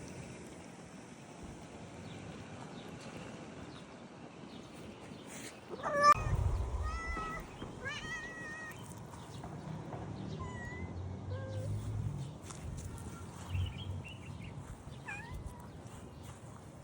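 A cat meowing several times. The loudest meow comes about six seconds in, followed by a string of shorter meows.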